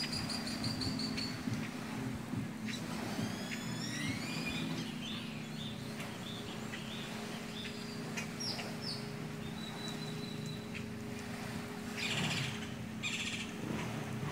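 Birds calling: a quick high trill near the start, a run of rising whistled notes a few seconds in, and more chirps scattered through, over a steady low hum.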